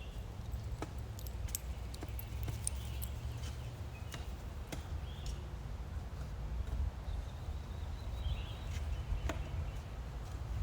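Outdoor work sounds: scattered light knocks and clicks over a steady low rumble, with a few short high chirps.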